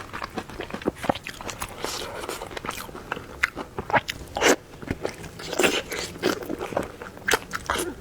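A person biting and chewing food close to the microphone, with irregular crunchy bites and wet mouth clicks.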